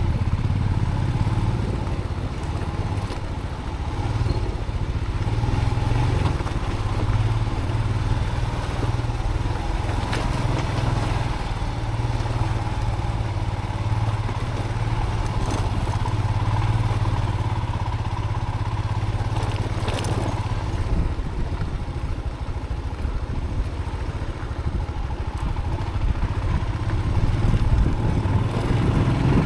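Motorcycle engine running steadily at low speed on a rough dirt track, with a few sharp knocks over the ride.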